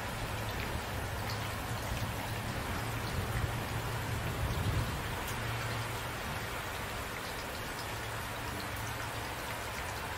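Steady rain falling, with individual drops ticking on a surface over an even hiss and a low rumble underneath that swells slightly a few seconds in.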